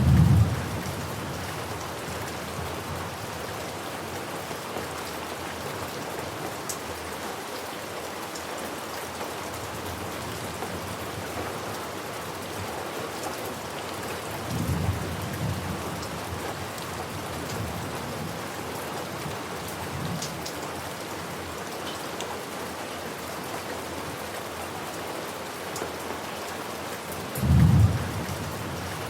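Steady rain with thunder. A loud deep thunderclap comes right at the start, a softer rumble about halfway through, and another loud deep clap near the end.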